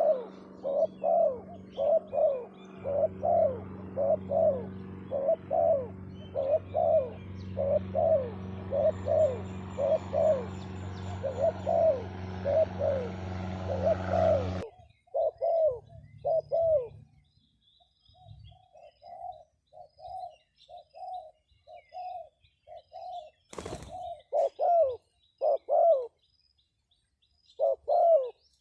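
A bird calling over and over in short, arched notes, about two a second, with a steady hum behind it. About halfway through, the hum cuts off abruptly and the calls go on softer and more spaced out, and there is a single sharp click near the end.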